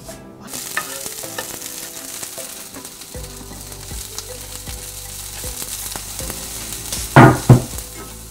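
Sliced mushrooms and wild chives sizzling in oil in a frying pan, stirred with a wooden spatula, the sizzle starting about half a second in. Two loud knocks come near the end, close together.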